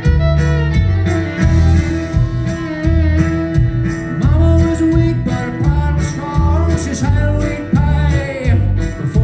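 Acoustic country band playing an instrumental break between verses: a fiddle melody with slides over strummed acoustic guitar and bass notes on a steady beat.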